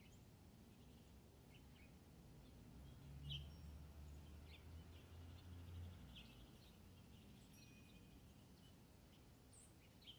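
Faint, scattered short bird chirps and call notes over a low background rumble that swells briefly between about three and six seconds in.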